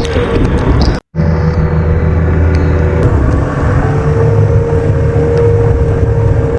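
A vehicle engine running under a loud wash of storm wind and rain noise. The sound cuts out abruptly for an instant about a second in.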